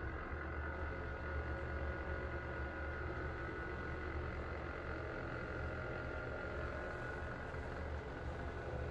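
Greenheck restroom exhaust fan running steadily: a low hum with a steady high-pitched whine on top. Its owner finds its sound unusual.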